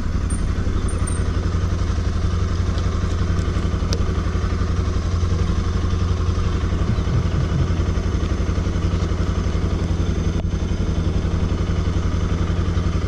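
Bajaj Pulsar NS200's single-cylinder engine idling steadily while the motorcycle stands still.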